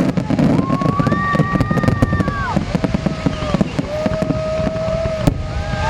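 Fireworks going off in a rapid run of sharp pops and crackles, over a crowd. Several long, steady high-pitched calls sound over it, each held for a second or two.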